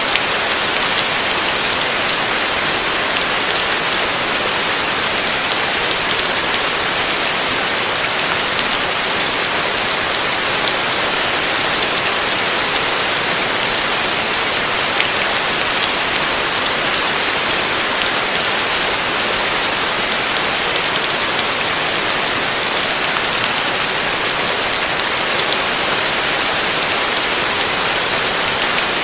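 Heavy rain falling steadily on a roof: a dense, even hiss with no letup.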